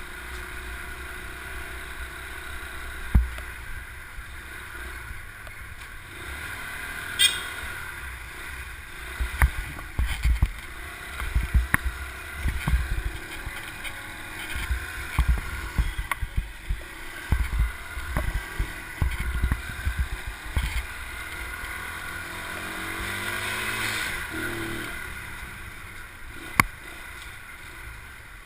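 Motorbike on the move: a steady engine hum with gusts of wind buffeting the microphone, a few sharp knocks, and a louder swell of traffic or engine noise near the end.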